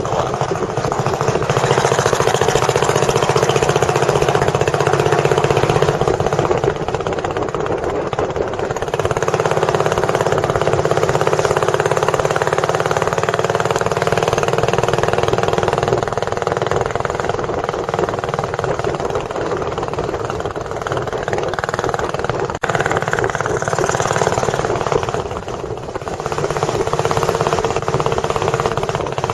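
A tourist boat's engine running steadily under way.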